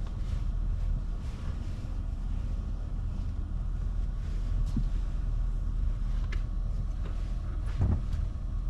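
Pickup truck running at low speed with a steady low rumble while manoeuvring a camping trailer, with a few faint knocks, the loudest one near the end.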